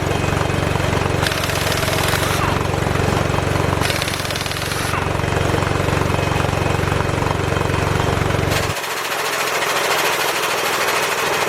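Craftsman 16882 half-inch air impact wrench hammering in reverse in repeated bursts of about a second each, then running on without a break near the end. Under it a steady low hum cuts off about nine seconds in.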